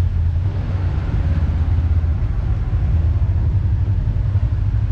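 Kawasaki KRX side-by-side's parallel-twin engine running with a steady low rumble.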